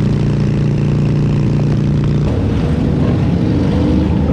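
Harley-Davidson Sportster 883's air-cooled V-twin engine running at a steady speed; about two seconds in the sound changes abruptly to a rougher, less even engine note.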